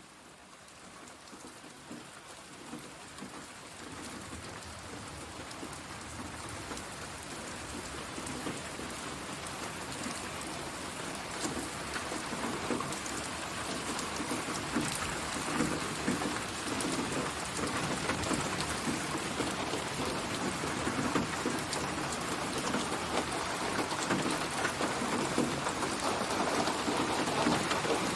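Synthesized rain ambience, dense rain pattering on surfaces, swelling gradually louder throughout.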